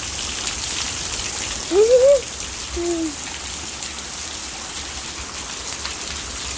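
Heavy rain falling steadily in a severe storm. About two seconds in comes a loud, short rising hoot, like a voice, and a second, lower one falling away just after.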